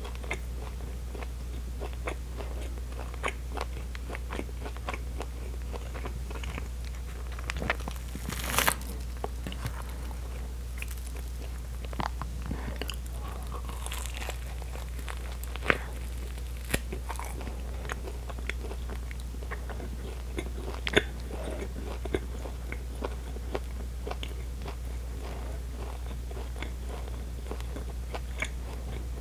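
Close-miked biting and chewing of a crusty bacon épi, a poppy-seed bread baked around bacon, with many small crunches of the crust and a few louder, sharper ones.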